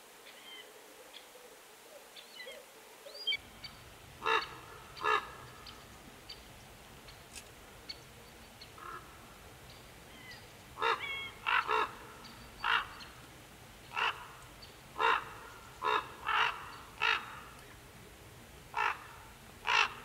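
Short bird calls repeated about a dozen times, starting about four seconds in and coming more often in the second half, a few in quick pairs. A few faint, thin high calls in the first few seconds.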